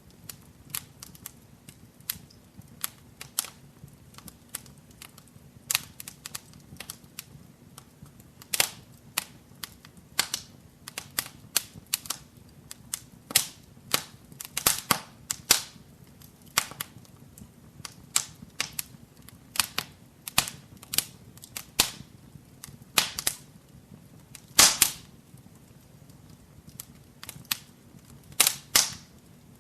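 Fire crackling in a fireplace: sharp, irregular pops and snaps, sometimes several in quick succession, over a low steady rumble.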